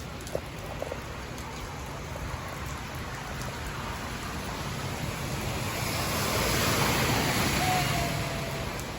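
Steady hiss of light rain and rushing storm runoff in a flooded street. A louder broad whoosh swells up about five seconds in and fades away near the end.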